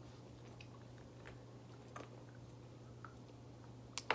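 Faint chewing of chocolate-covered plum candies, with a few small mouth clicks over a steady low hum. A sharp click about four seconds in is the loudest sound.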